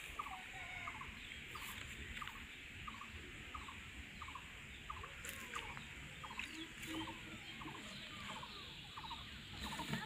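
A bird calling over and over in short, evenly spaced notes, about two a second, over a steady faint hiss.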